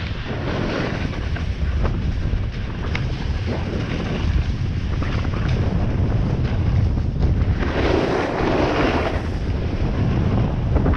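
Wind rushing over the microphone of a camera carried down a ski slope, with a snowboard sliding and scraping over the snow. A louder scraping rush lasts about a second and a half near the end.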